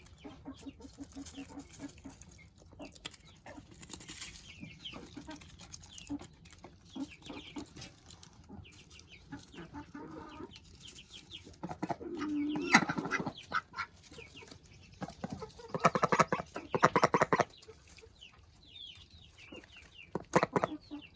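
Chickens clucking and calling, with faint short peeps throughout and louder calls about twelve and sixteen seconds in.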